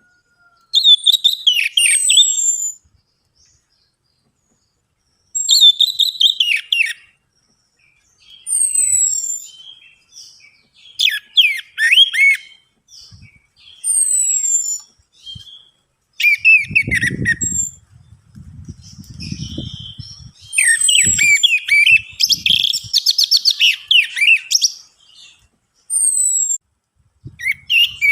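Orange-headed thrush (anis merah) singing: loud phrases of quick whistled notes and falling slurs, broken by short pauses, of the kind used as a lure song to get a reluctant captive thrush singing.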